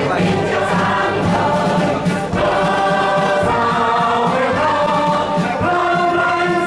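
A choir singing a song, the voices holding notes that change about every second.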